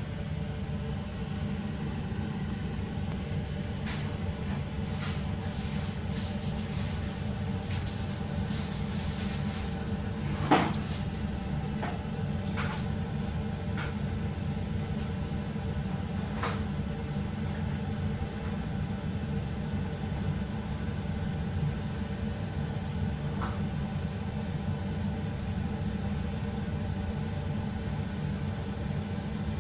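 Steady low rumble with a few scattered light knocks and clicks, the loudest about ten seconds in.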